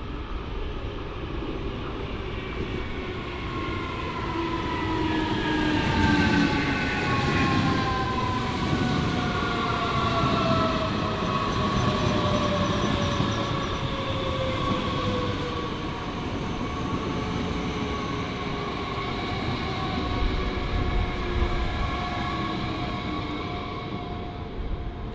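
Electric train running past on the tracks: a rumble of wheels on rail under a whine from its traction motors, several tones falling slowly and steadily in pitch. It is loudest from about a quarter of the way in to the middle.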